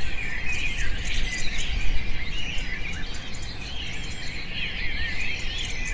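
Many small birds chirping and twittering together, continuously and overlapping, over a steady low rumble.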